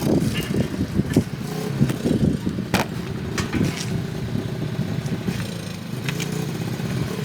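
A vehicle engine running steadily, with a few short clanks and knocks over it.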